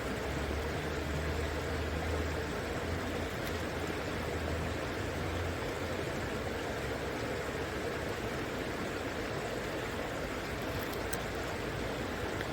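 River water flowing steadily, a continuous even rushing. A low rumble sits under it for the first five seconds or so, then fades.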